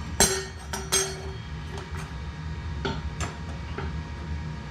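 Metal parts clinking as a mini bike's brake rotor and its bolts are handled and fitted: three sharp, briefly ringing clinks in the first second, then a few lighter clicks later on, over a steady low hum.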